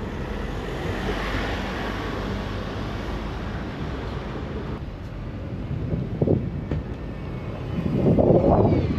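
A steady engine rumble, growing louder near the end.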